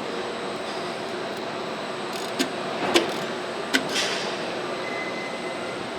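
Engine assembly line ambience: a steady machinery hum, with three sharp metallic clicks or clanks in the middle and a brief hiss about four seconds in.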